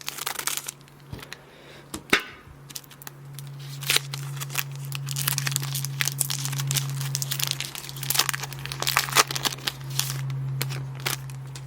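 Foil wrapper of a Pokémon booster pack crinkling and being torn open in many irregular crackles. A steady low hum runs underneath from about two and a half seconds in.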